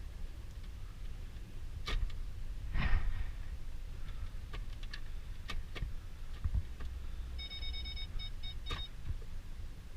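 The 2012 Nissan Titan's 5.6-litre V8 idling as a low steady rumble, with scattered clicks and knocks. Near the end, an electronic warning chime sounds once long and then as several quick beeps.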